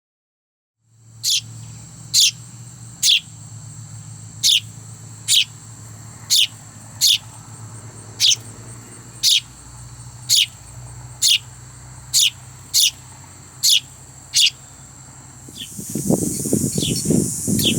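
Fledgling sparrow chirping over and over, a sharp falling chirp about once a second, likely begging to be fed. A steady low hum runs underneath, and near the end a louder hissing noise comes in.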